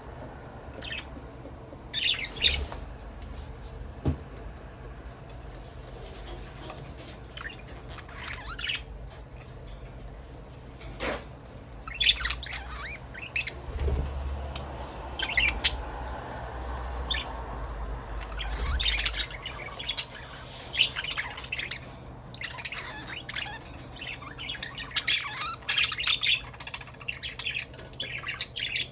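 Budgerigars chirping and squawking in short calls, scattered at first and then coming thick and fast in the second half.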